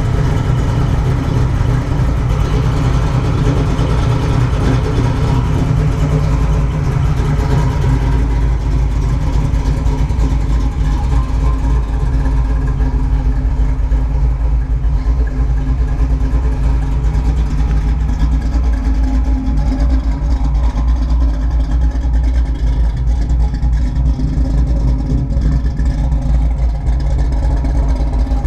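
1969 Chevrolet Camaro SS V8 engine idling steadily.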